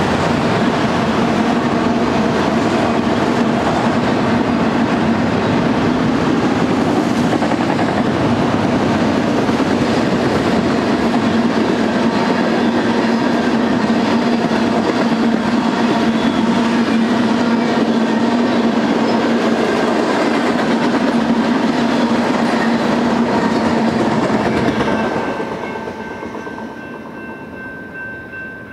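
Manifest freight train's auto-rack and tank cars rolling past, a steady rumble and clatter of wheels over the rail. About 25 seconds in the last car clears and the sound fades away, leaving faint high steady tones.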